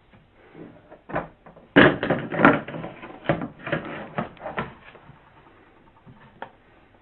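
A quick run of knocks and scrapes from objects being handled. It starts sharply about two seconds in and dies away after about three seconds.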